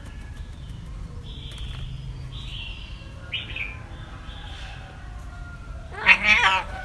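A cat meowing once, loud and wavering, near the end, after several short, faint high chirps over a low steady background noise.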